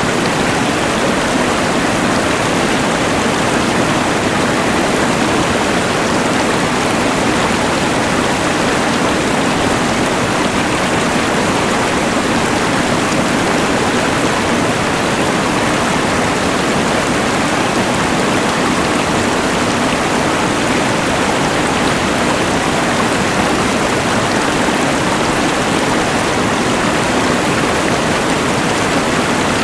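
Rushing mountain river blended with the hiss of a LectroFan white noise machine: a loud, steady rush of water and noise that does not change.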